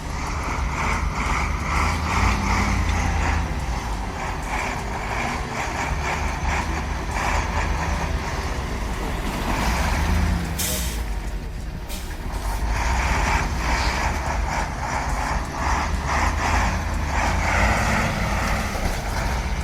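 Heavy truck engine running under load with a steady low rumble, and a short hiss of air about ten seconds in.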